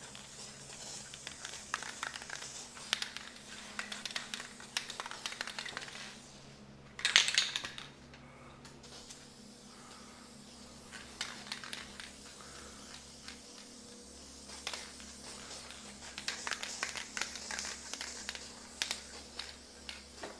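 Aerosol can of matte clear coat spraying in short hissing bursts, with light clicks and handling noise between them; the loudest, longest burst comes about a third of the way in.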